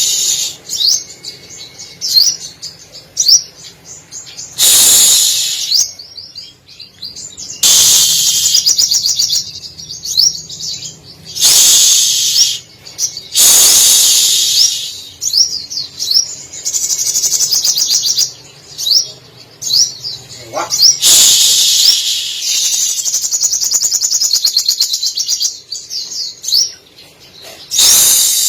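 Sogon (little spiderhunter) singing loudly in its full 'gacor' song: rapid high chattering phrases of one to three seconds with short upward-sweeping notes, broken by brief pauses, with mimicked canary, sparrow and lovebird phrases woven in.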